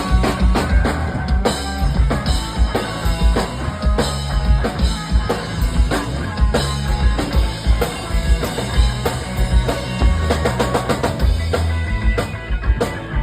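Live punk-rock band playing an instrumental break: electric guitar lead over a driving drum kit and bass.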